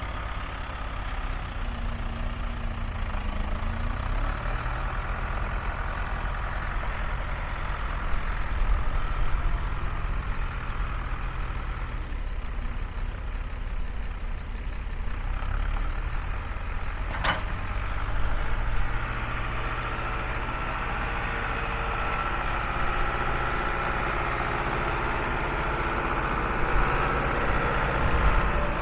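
Valtra C110 tractor's diesel engine running steadily, its note shifting a little partway through, with one sharp click past the middle.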